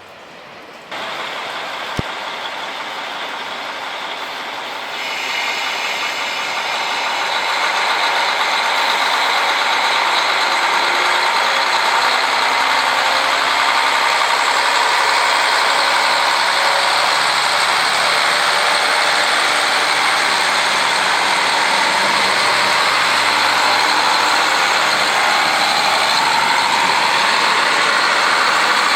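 Diesel train engine running, getting louder in steps over the first several seconds and then holding steady, with a single sharp click about two seconds in.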